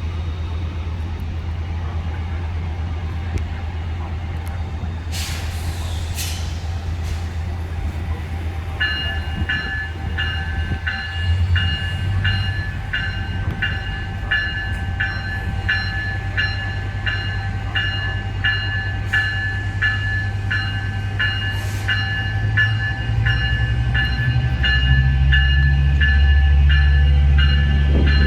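A train's deep, steady rumble, with a bell starting to ring about nine seconds in, about one and a half strikes a second. The rumble grows louder over the last few seconds as the train comes closer.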